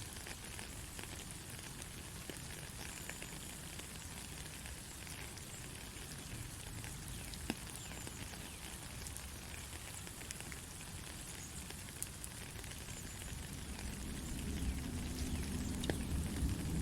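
Steady rain with scattered sharp drop ticks. A low rumble of thunder builds in the last few seconds.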